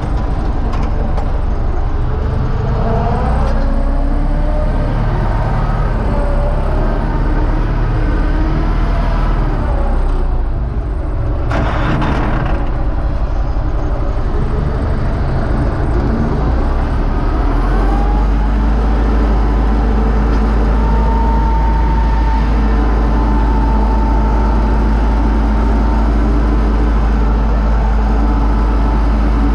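Universal U650 tractor's diesel engine running under way, its note shifting in the first ten seconds, with a brief rushing noise about twelve seconds in; from about eighteen seconds it settles into a steady, heavier drone.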